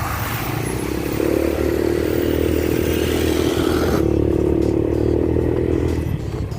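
Motorcycle engine running steadily under way, its note swelling about a second in, with a rushing hiss over it that cuts off abruptly about four seconds in.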